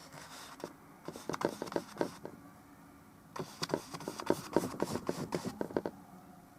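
Oil paintbrush working on a painting: quick dabbing and scrubbing strokes in two flurries, one about a second in and a longer one from about halfway until near the end.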